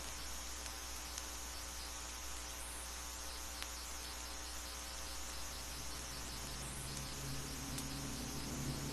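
Insects chirping in steady, repeated high-pitched trills over a low hum. A low drone, like a distant engine, fades in near the end.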